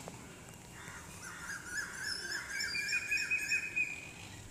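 Birds chirping in the background: rows of quick, repeated high notes that start about a second in and keep going.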